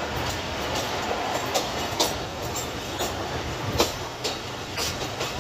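Pakistan Express passenger coaches rolling along the track, heard from the moving train itself: a steady rumble with a few sharp, irregular clacks of the wheels over rail joints, the loudest about two-thirds of the way through.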